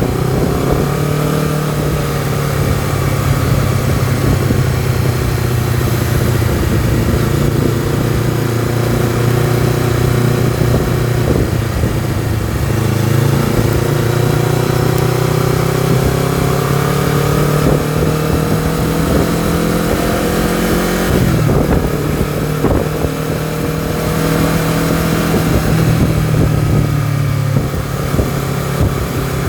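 Honda CBR250RR motorcycle engine and exhaust running while riding. The engine note climbs slowly for over ten seconds, then drops suddenly a little past two-thirds of the way through, as on a gear change or closing the throttle. Wind rush is heard over the engine.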